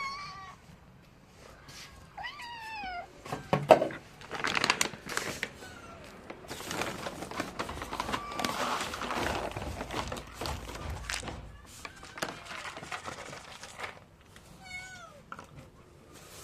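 Cats meowing, several drawn-out falling calls, with a long stretch of rustling, clicking and crinkling in between.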